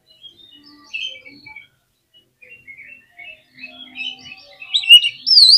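Oriental magpie-robin singing: a run of short, varied chirps and whistles that builds to loud, sweeping whistled notes near the end.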